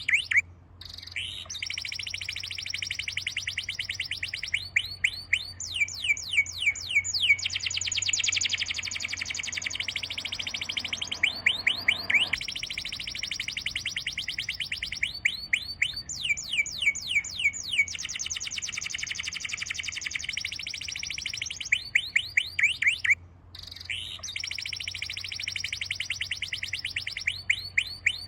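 Songbird singing in long rapid trills of short, high, downward-sweeping notes, run after run with brief pauses, over a faint steady low hum.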